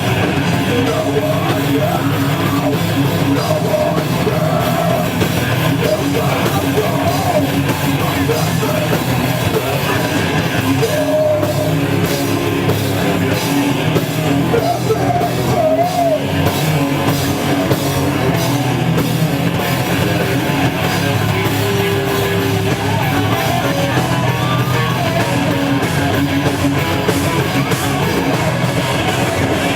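Live heavy metal band playing loud and without a break: electric guitars, bass and drum kit.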